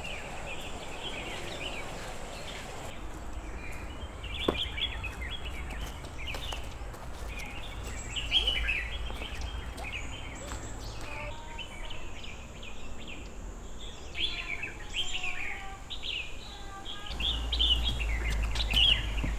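Birds chirping and calling, many short chirps scattered through, over a low rumble that grows louder near the end.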